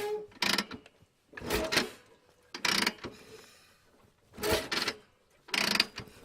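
Short mechanical clacks, mostly in pairs, about once a second.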